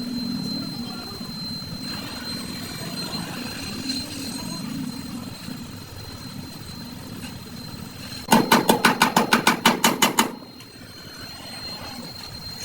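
Steady low workshop hum, then about two seconds of rapid, evenly spaced sharp strikes, about seven a second, as metal is worked on a car body under restoration.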